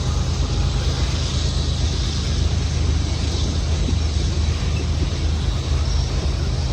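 Freight train cars rolling past on the rails, a steady low rumble.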